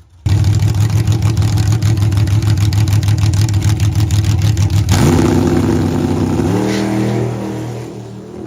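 A drag car's engine held at high, steady revs with a fast, rough pulse for about five seconds, then its pitch climbs in steps as it accelerates away, fading near the end.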